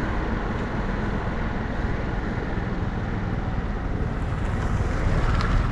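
Steady wind rush on the microphone mixed with road noise from a moving motorbike.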